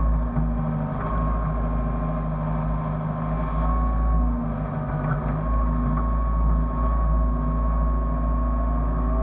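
Hyundai excavator's diesel engine running steadily under load, with a high steady whine over the low engine rumble.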